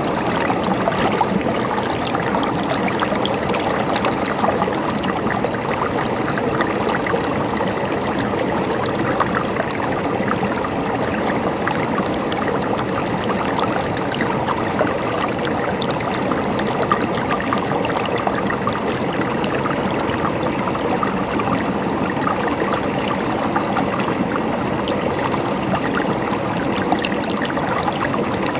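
Stream water running and trickling steadily, with a constant bubbling, splashing flow.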